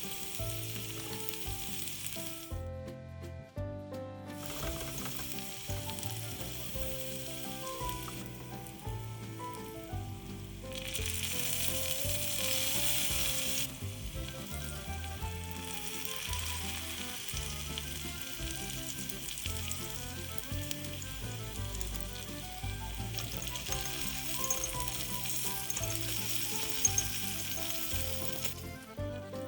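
Food sizzling in a miniature frying pan, a steady hissing fry that drops out briefly about three seconds in and swells louder midway. Light background music plays underneath.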